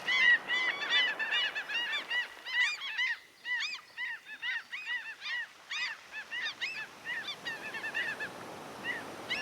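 A flock of gulls calling: many short, arched cries overlapping, several a second, dense at first and thinning toward the end, over the steady noise of the sea.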